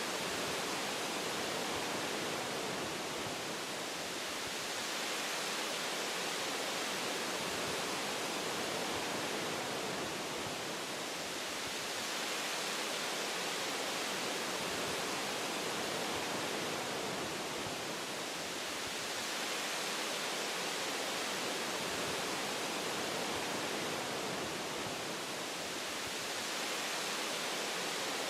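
Wind blowing through forest tree branches: a steady rushing hiss that swells and eases gently every six or seven seconds.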